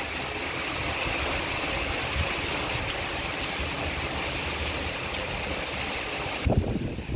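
Steady hiss of heavy rain falling. The hiss falls away near the end, where a few low bumps come in.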